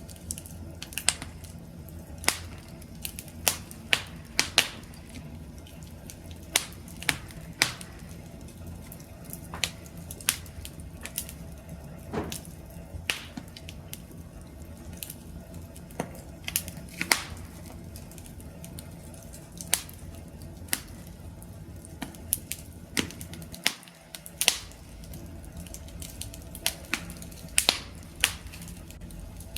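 Wood fire crackling, with irregular sharp pops and snaps over a steady low rumble and hiss of burning.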